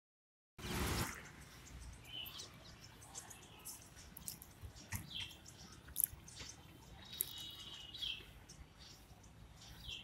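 Birds chirping: scattered short call notes, some falling in pitch and one briefly held, with many quick high ticks over faint background noise. A brief rush of noise comes just after the start.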